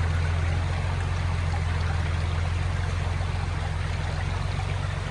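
Truck engine running steadily at a low, even pitch, with a steady hiss over it.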